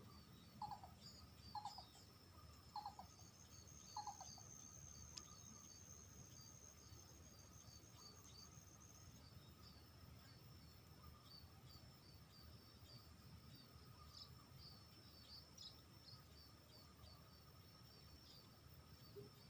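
Faint cooing of a dove: four short notes spaced about a second apart, at the start. Insects chirp throughout, with a steady high insect buzz for several seconds in the first half.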